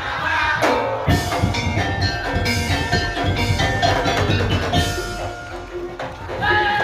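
Madurese ul daul (tong-tong) percussion ensemble playing: a dense beat of drums under ringing, pitched metal percussion.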